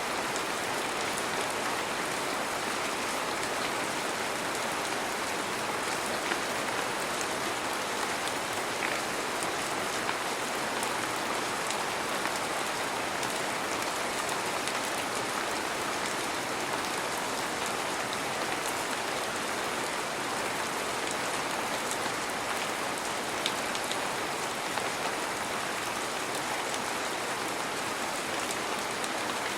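Heavy rain falling steadily, an even rushing hiss with scattered individual drop ticks.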